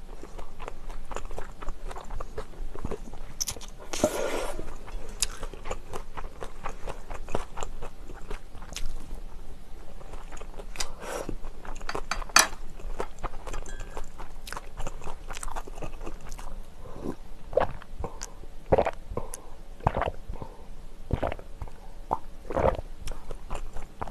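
Close-miked chewing of a mouthful of bibimbap mixed with salted herring roe, with many small irregular crunches and clicks and a louder stretch of noise about four seconds in.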